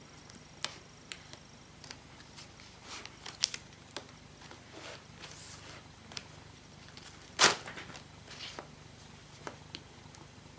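Scattered clicks and crackles of plastic parts being handled and prised apart, with one louder snap about seven and a half seconds in: the clips and plastic strips of a laptop's display panel being released from the old screen.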